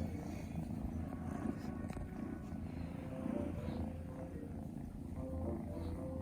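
Scottish Fold kitten purring steadily, a low continuous rumble.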